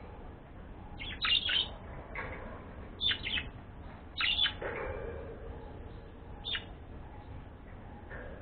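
A pet bird chirping: short, sharp, high calls in four brief groups, about one, three, four and six and a half seconds in.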